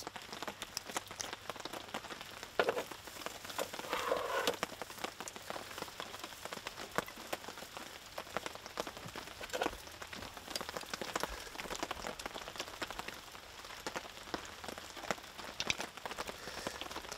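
Light rain pattering steadily, with scattered sharper drip taps.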